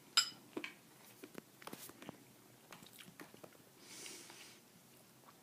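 Someone chewing close to the microphone: a sharp click just after the start, then scattered small mouth clicks and smacks, with a soft breath about four seconds in.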